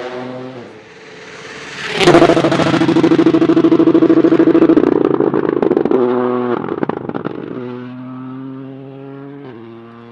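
Toyota GR Yaris Rally2 rally car at full throttle on a stage, its turbocharged engine passing close. It comes in suddenly and loud about two seconds in, holds a steady high note for about three seconds, then fades as the car pulls away, with the note breaking and shifting abruptly several times.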